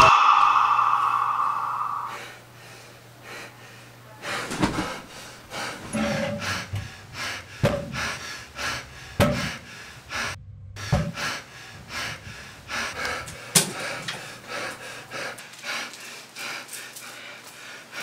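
Music fading out over the first two seconds, then a man's heavy, irregular breathing with gasps, about one breath a second.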